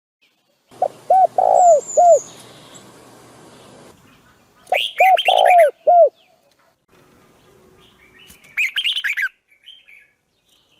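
Birds calling: two phrases of five or six short arched notes, about three seconds apart, then a higher, quicker run of notes near the end, with a faint high thin call over the first phrase.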